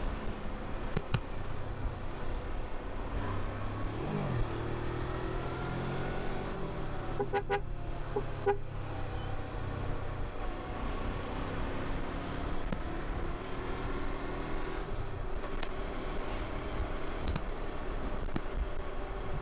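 Kawasaki Versys 250 parallel-twin motorcycle engine running while riding in traffic, its revs rising briefly about four seconds in. A few short horn beeps sound around seven to eight seconds in.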